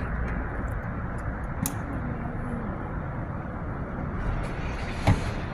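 Steady vehicle and traffic rumble at a roadside, with a sharp tick a little under two seconds in and a short knock near the end.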